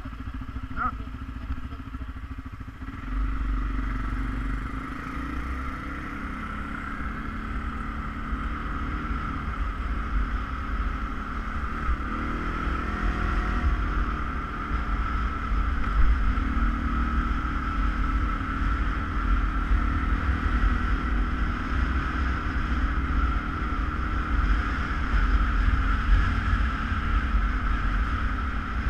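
ATV engine running under way, with a steady low rumble and a steady high tone over it; it grows louder about three seconds in as the machine pulls away.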